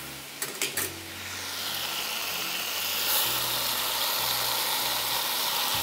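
Marinade sizzling as it is poured into hot oil around a whole chicken frying in a wok. A few light clicks in the first second, then the sizzle swells and holds steady.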